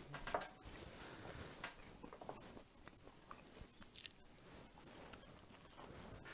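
Faint, close-up eating sounds of a person chewing and biting into a wheat bread roll, with scattered short mouth clicks; one bite is sharper about four seconds in.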